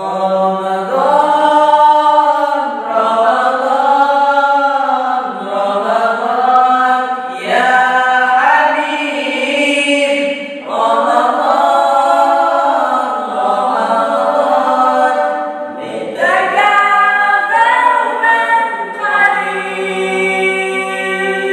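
A cappella singing of a Ramadan song in Arabic: layered voices carrying a melody over held lower notes, without instruments.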